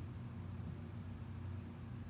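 Steady low hum with no thunderclaps or other sudden sounds.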